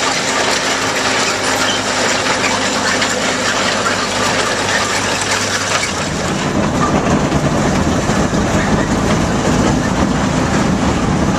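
Lombard log hauler running with a steady rhythmic clatter, heavier and deeper from about six seconds in.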